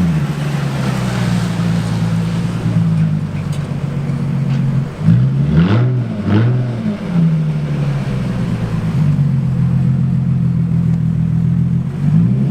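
Nissan 350Z's 3.5-litre V6 running at low revs while driving, its note dipping and climbing back twice around the middle, then falling near the end.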